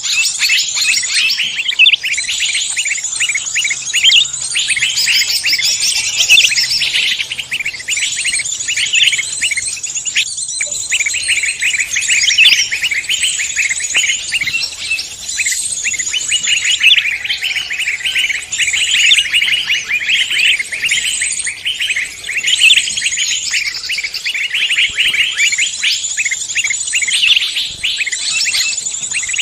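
Dense chorus of many songbirds chirping and trilling over one another without a break: a mixed recording of wild songbird calls used as a lure to draw other birds in.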